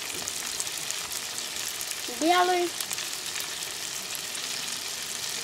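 Food frying in a wok: a steady sizzle with fine crackling, while sauce is poured in from a bottle. A short hummed voice sound cuts in about two seconds in.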